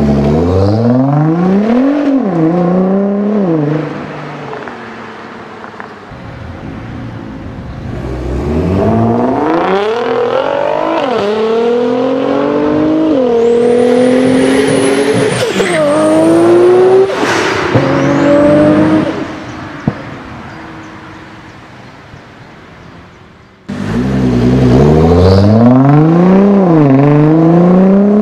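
Nissan GT-R twin-turbo V6 engines accelerating hard away, in three separate runs: each time the engine note rises through the gears with quick upshifts that drop the pitch sharply. During the middle run a thin high whistle rises and holds over the engine; the last run cuts in suddenly near the end.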